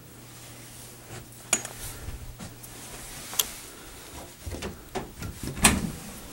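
A few sharp clicks and knocks, the loudest near the end, among softer low thuds.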